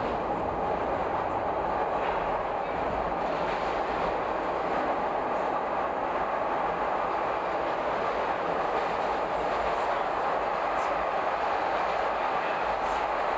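Chicago rapid-transit train running at speed, a steady, unbroken noise of wheels on rails heard from inside the car.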